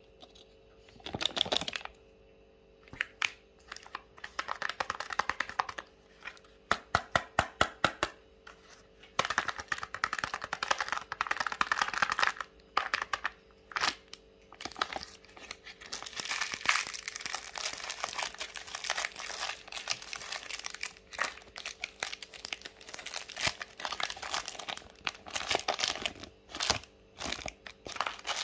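Foil wrappers of Kinder Joy surprise eggs crinkling and tearing as they are unwrapped, with runs of sharp clicks and snaps from the plastic egg halves being cracked open.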